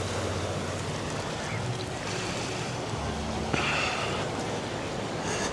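Busy beach ambience: a steady wash of waves and distant crowd voices, with wind on the microphone.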